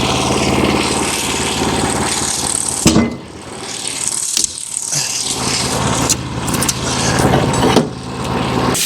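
Wood-Mizer LX25 sawmill's engine running steadily, with a sharp clack about three seconds in. After the clack the sound drops lower and becomes uneven for a couple of seconds, then builds back up, with another brief dip near the end.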